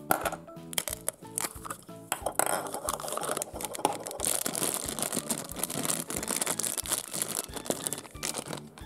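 A thin clear plastic bag crinkling as it is handled and opened, after a few clicks and taps of a plastic toy capsule in the first couple of seconds, over background music with a steady beat.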